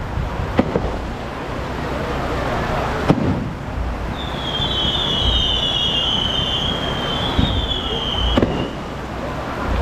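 Fireworks going off in a continuous crackle, with several sharp bangs. A high, slightly falling whistle runs from about four seconds in until just before a bang near the end.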